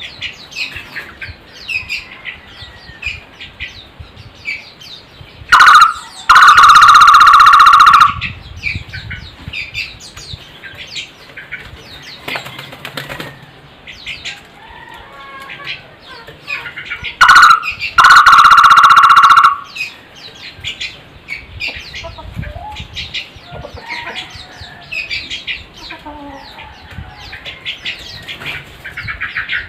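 Takur barbet calling loudly twice, about six and eighteen seconds in: each time a short note and then a rapid pulsed call lasting about two seconds. Small birds chirp and twitter throughout.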